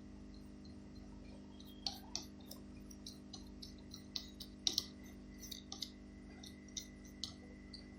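Solder balls clicking and rattling onto a BGA reballing stencil over a PS5 APU: irregular faint ticks, with a louder pair about halfway through. A steady low hum runs underneath.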